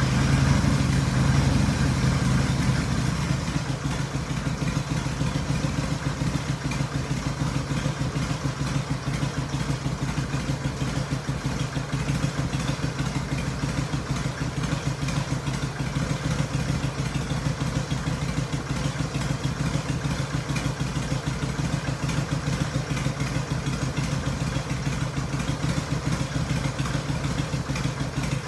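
2001 Harley-Davidson Sportster XLH883 Hugger's air-cooled V-twin idling, a little louder for the first three seconds and then settling to an even idle.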